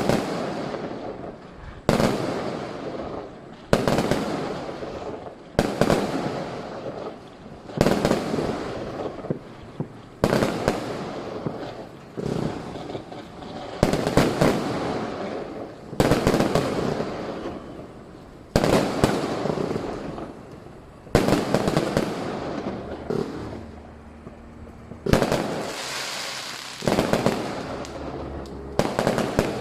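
Fireworks going off in a steady series, a sharp bang about every two seconds, each followed by a noisy tail that fades away.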